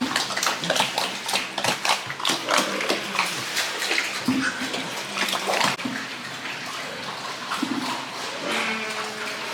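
Pigs grunting and giving short squeals amid splashing water and a run of clattering knocks.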